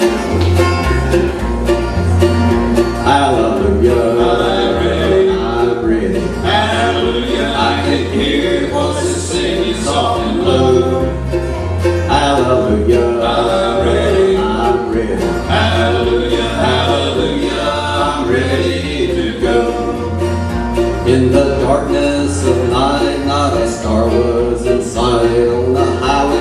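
Bluegrass gospel band playing: banjo and guitar over an alternating bass line, with voices singing.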